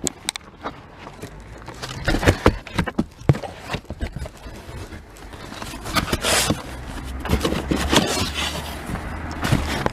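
Pieces of firewood knocking and scraping against each other as they are handled and stacked: a few sharp knocks, then rougher scrapes.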